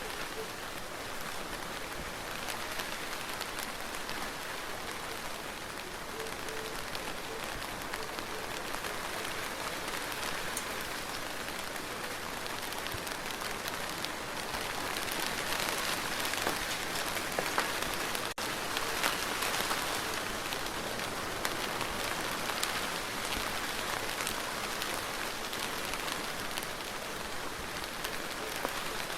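Steady rain falling, with many individual drops tapping on a surface; it grows a little heavier about halfway through.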